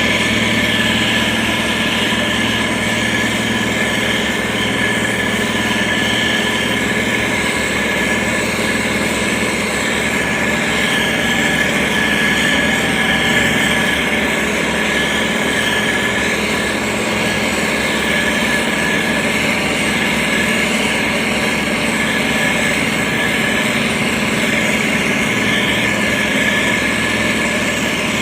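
Heavy road-construction machinery running steadily: a continuous engine drone with a steady high whine over it, holding level throughout.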